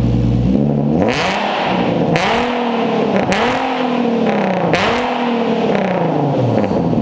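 Infiniti Q50's 3.7-litre VQ37VHR V6 revved four times in quick succession from idle through a custom 3-inch stainless single-exit exhaust with a Vibrant resonator and 1060 muffler. Each rev climbs and drops back, and the engine settles to idle near the end.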